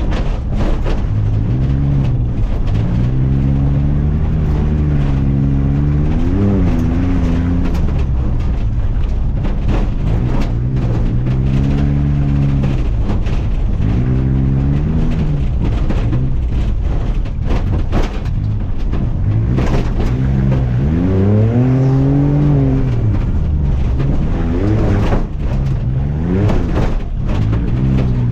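Off-road truck engine revving hard and easing off again and again, its pitch swelling up and falling back every few seconds, with scattered knocks and clatter.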